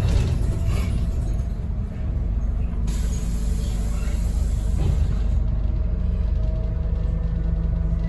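Scania N230UD double-decker bus's nine-litre five-cylinder diesel engine heard from inside the saloon as the bus drives along: a steady low drone with road rumble.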